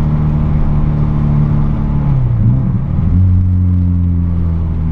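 Volkswagen Golf Mk3 engine and its exhaust, stripped of the intermediate muffler and catalytic converter and fitted with a sport rear muffler, heard from inside the car while driving. A steady, loud note dips and wavers about two seconds in as the revs change, then holds steady again.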